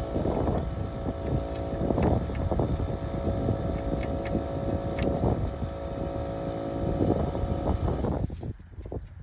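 A motor-driven machine running steadily with a rushing, gusty sound over it, which cuts off about eight seconds in.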